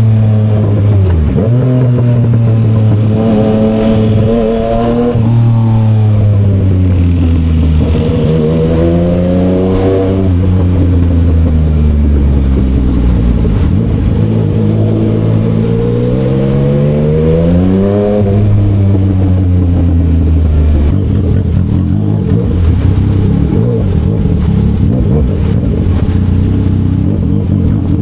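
Yamaha XSR900's inline-three engine through an SC Project aftermarket exhaust, pulling up through the revs and dropping back several times as the bike accelerates and shifts. About 21 seconds in, the pitch falls and holds at a lower steady note.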